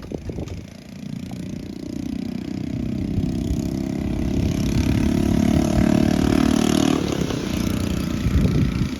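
A motor vehicle engine passing by, growing louder over several seconds, running steadily at its loudest, then fading near the end.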